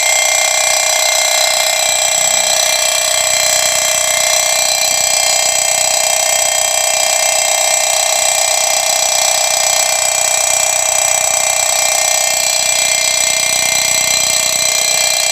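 Dense chorus of night insects in a rice paddy: a steady, loud, shrill drone with no breaks.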